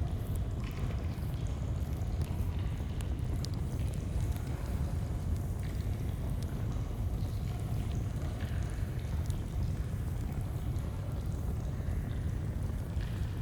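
Steady rushing of a flowing stream, with small campfire crackles scattered through it.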